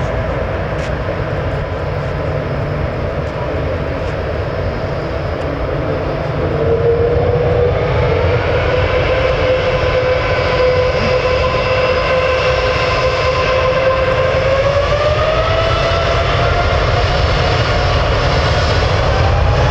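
Jet airliner engines running over a steady low rumble. A whine sets in about six seconds in, getting louder, then climbs in pitch in the last third.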